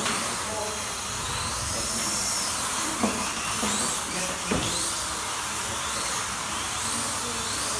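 Electric slot cars running round the track during a heat: a steady hiss with small motors whining, their pitch rising and falling as the cars speed up and brake. Two sharp knocks come about three and four and a half seconds in.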